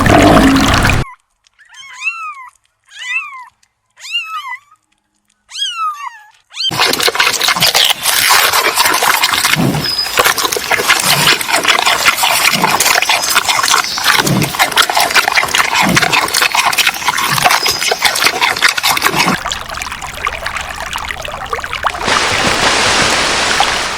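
Four short, high animal calls about a second apart, each rising and then falling in pitch. They are followed by a long stretch of dense crackling, rustling noise.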